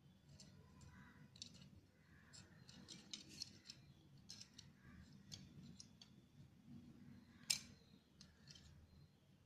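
Faint clicks and taps of the small plastic parts of a battery trimmer being handled and fitted back together, with one sharper click about seven and a half seconds in.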